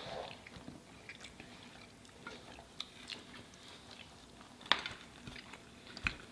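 A person chewing and biting food close to the microphone: quiet mouth sounds with scattered small crunches and clicks, one sharper click about three-quarters of the way through.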